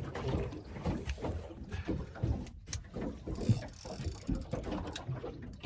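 Fishing reel being wound in, its gears clicking, with knocks of handling on a small boat and a brief hiss about three and a half seconds in.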